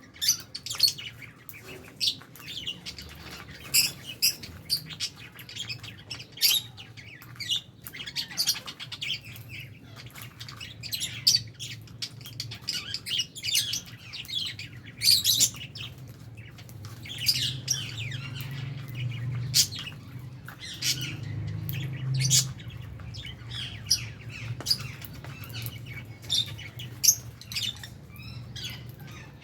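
A flock of lovebirds chirping and squawking in an aviary: many short, sharp, high calls overlapping in an irregular stream, over a steady low hum.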